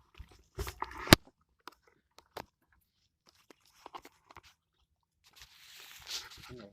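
Scattered crunches and clicks of handling and movement, likely from unpacking the pop-up tent, with one sharp click about a second in and a soft rustle near the end.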